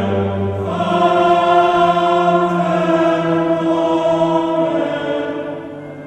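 Background music: sustained choral singing with long held chords, fading down near the end.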